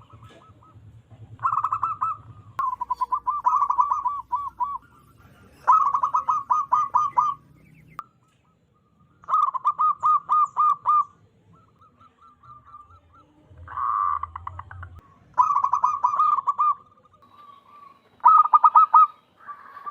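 Zebra dove (perkutut) cooing: repeated phrases of quick staccato coos, loud and clear, coming every second or two with short pauses between.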